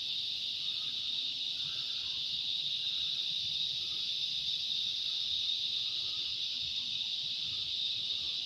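Cicadas buzzing loudly in one steady, unbroken high-pitched drone that holds the same pitch and level.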